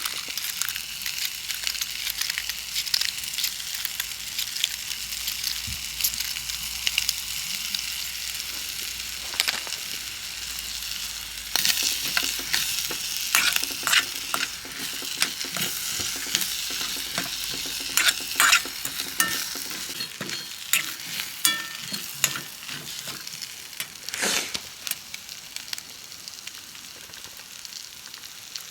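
A campfire sizzling and crackling with a steady hiss and many sharp pops. The pops grow denser and louder about twelve seconds in.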